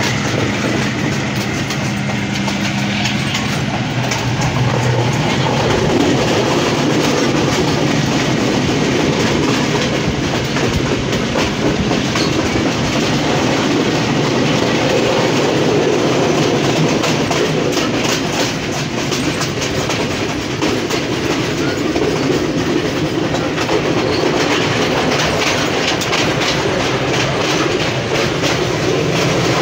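Passenger train running, heard from inside a carriage: a steady rumble of the wheels with a fast, continuous clickety-clack over the track.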